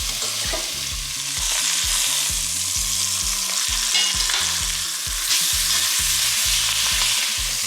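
Chicken thighs searing skin side down in hot avocado oil, a steady loud sizzle.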